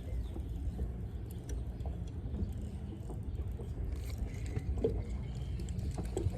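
Steady low rumble around a small fishing boat, with scattered light clicks and taps.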